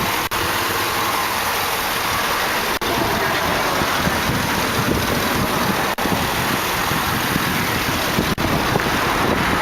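Chevrolet 5.3 liter Vortec V8 idling steadily, heard with the hood open. The sound drops out very briefly four times.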